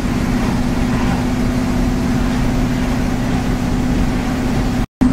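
1955 Chevrolet pickup truck under way on the road, its engine and road noise running steadily with a constant hum underneath. The sound cuts out for a moment near the end.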